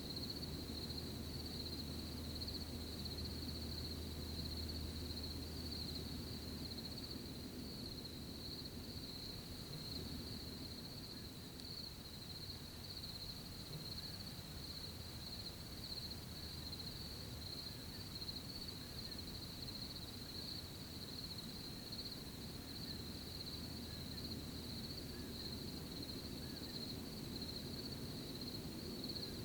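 Crickets chirring in a steady, unbroken high trill, over a soft low rustle like leaves or light wind.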